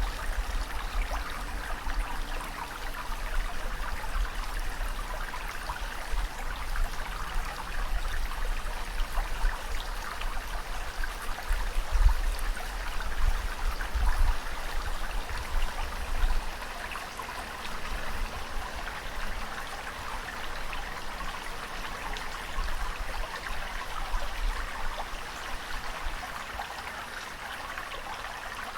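Ocean water washing and trickling in a steady rush, with low rumbling surges over roughly the first sixteen seconds that then die down.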